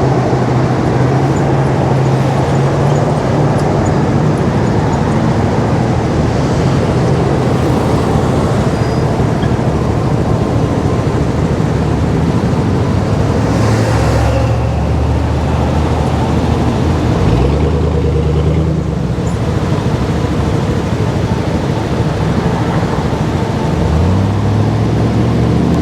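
Honda Navi's small single-cylinder engine running at road speed under a steady rush of wind and road noise. The engine note drops about halfway through, then climbs again a few seconds later and once more near the end.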